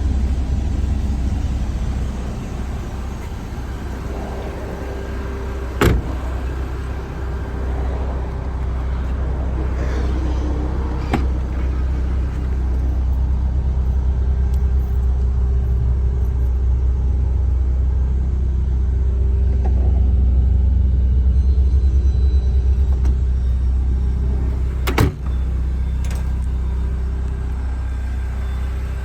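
A car engine running steadily with a low rumble, and two sharp knocks, one a few seconds in and one near the end.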